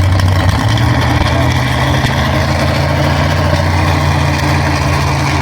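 Modified pulling truck's big-block engine running loud and steady at a nearly constant pitch.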